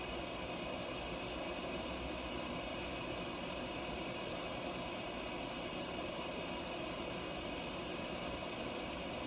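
Soto Stormbreaker pressurised liquid-fuel stove burner running steadily on barbecue lighter fluid: a constant, even rushing hiss of the flame with no change in level.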